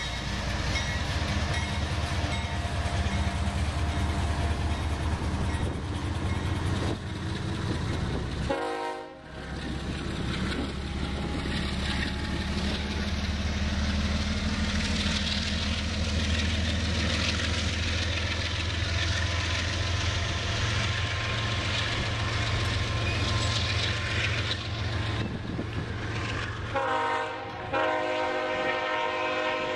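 Union Pacific GE diesel-electric locomotives, AC44CW 6416 among them, passing close with a deep, steady engine rumble. About three seconds before the end the rumble drops away as the double-stack cars roll by, and a steady chord of several tones sounds, a train horn.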